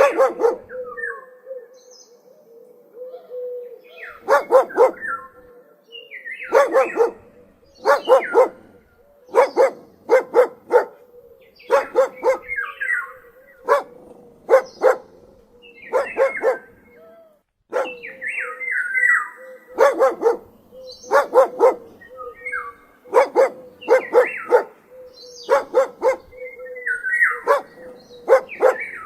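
A dog barking over and over, in short runs of two or three sharp barks about every second or two. High chirping sounds come between the barks, over a faint steady hum.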